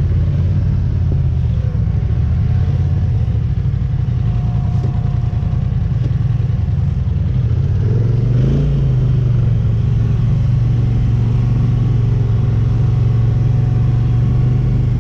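ATV engine running steadily under way, with a brief dip and change in pitch about eight seconds in before it settles into a steady drone again.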